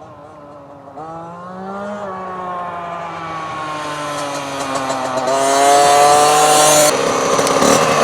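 Small two-stroke single of a KTM SX 50 mini dirt bike running at high revs, growing steadily louder, its pitch climbing with a couple of brief dips. About seven seconds in it turns loud and rough.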